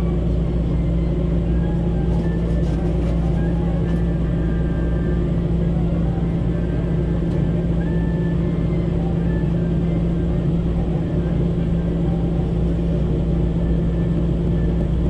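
Steady rumble and low drone of a moving passenger train, heard from on board.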